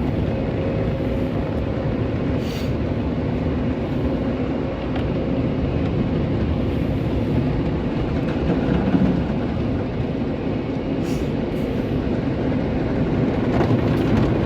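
Steady rumbling din of an automatic tunnel car wash heard from inside the car, with a couple of brief faint hisses.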